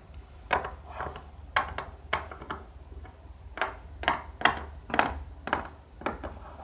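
Light, irregular clicks and taps of small plastic toy figures and props being handled and set down on a hard surface, about a dozen in all.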